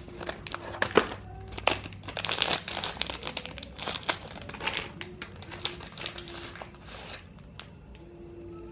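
Plastic snack wrappers crinkling irregularly as they are handled and opened.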